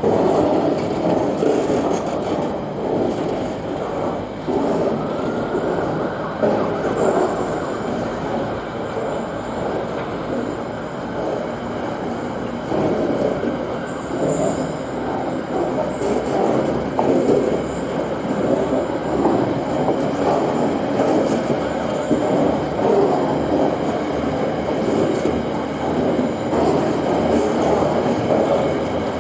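Freight train wagons rolling past, a steady loud rumble of wheels on the rails, with faint high-pitched wheel squeal through the middle.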